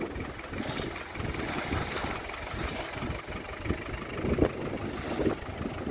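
Safari game-drive vehicle's engine idling with a steady low rumble.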